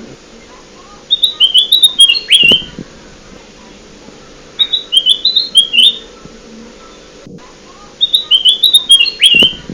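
Kutilang emas (a bulbul) song played as a bird-lure recording: three bursts of quick, chirpy whistled notes a few seconds apart, over a faint steady hum.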